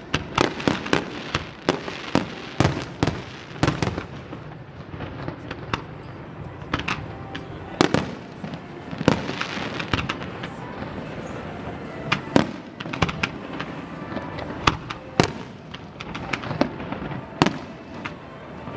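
Aerial fireworks display: a rapid run of sharp bangs from bursting shells over the first few seconds, then bangs spaced further apart, with crackling between them.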